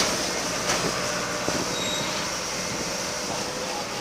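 Metal wheels of a backhoe rolling on a concrete road: a steady metallic grinding and scraping, with a short sharper scrape under a second in.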